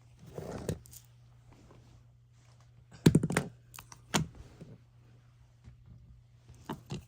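Handling noise: a soft rustle, then a quick run of sharp clicks and knocks about three seconds in, followed by a few single knocks later, over a steady low hum.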